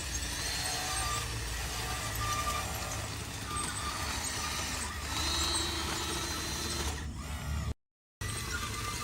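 Radio-controlled construction trucks working: a low engine-like rumble under several whining motor tones that come and go and slide in pitch. The sound cuts out to silence briefly about eight seconds in.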